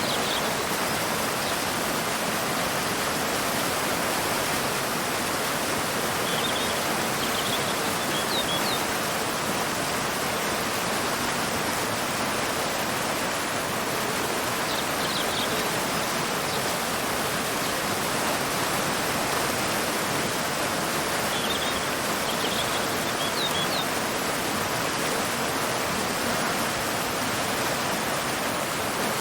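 Waterfall pouring into a river: a steady, even rush of water. Short bursts of high bird chirps come through it three times.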